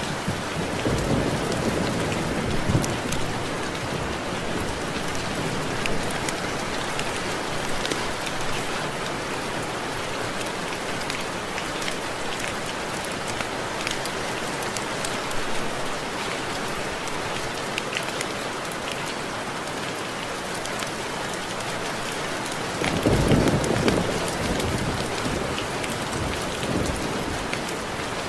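Steady rain pattering on window glass, with scattered drops ticking sharply against it. Two low rumbles of thunder swell up, one near the start and a louder one about 23 seconds in.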